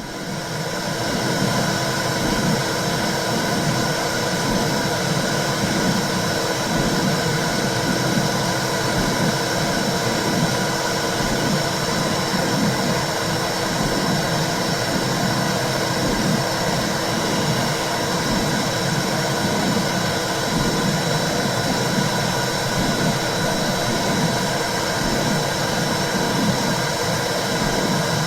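Womb sound for soothing a baby: a steady whooshing noise with a low, rhythmic pulse like a heartbeat, about once a second.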